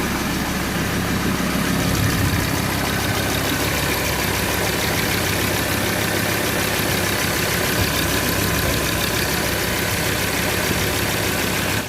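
Mazda BT-50 3.2's five-cylinder turbo-diesel engine idling steadily, just after starting: it runs again now that the faulty position sensor that stopped it from starting has been replaced.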